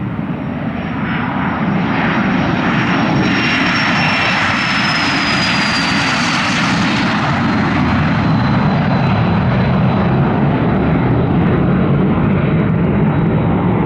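An airplane's engines passing close by. A high whine slides down in pitch as the aircraft goes past, and a low rumble carries on after.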